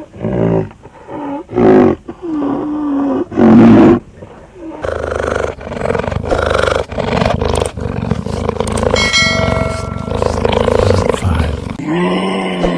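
Animal calls: several short, loud pitched calls in the first few seconds, then a long rough, noisy stretch, and another lower call near the end.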